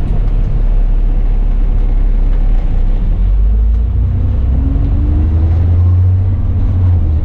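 Diesel bus engine running with a steady low rumble; about halfway through the engine note rises as the bus accelerates.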